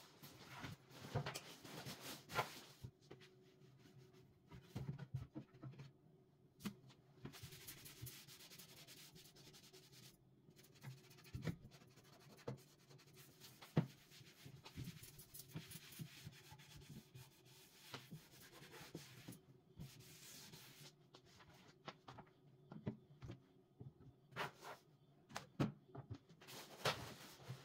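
Quiet household cleaning sounds: stretches of rubbing or wiping, broken by scattered light knocks and clicks of things being handled.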